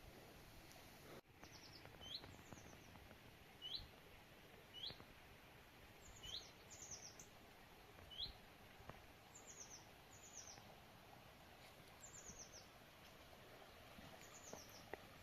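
Faint songbird calls over quiet forest background: short upswept chirps alternating with quick runs of three or four high descending notes, repeated every second or two.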